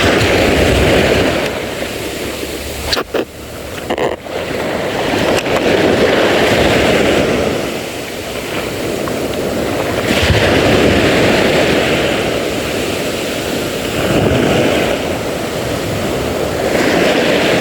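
Wind buffeting the microphone over sea waves, a loud rushing noise that swells and eases every few seconds.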